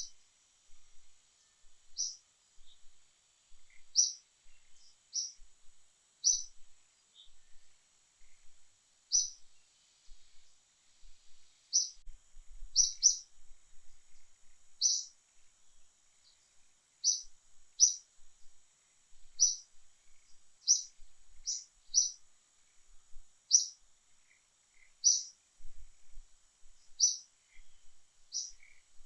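A bird chirping repeatedly: short, high chirps about every one to two seconds, some coming in quick pairs.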